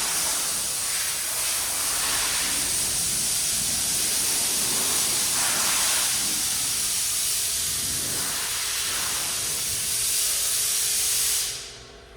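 A steady, loud hiss of rushing air that dies away quickly near the end, leaving a low engine idle underneath.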